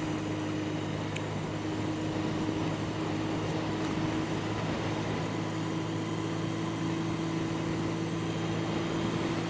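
Yamaha 750 Seca's inline-four engine running at a steady pitch while the motorcycle is ridden along at an even speed.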